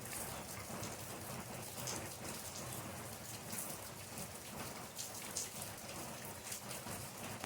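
Steady rain falling, with many individual drops pattering close by on a surface.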